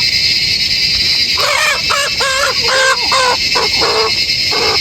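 A bird gives a run of about eight short calls, each rising and falling in pitch, over a steady high-pitched drone of insects.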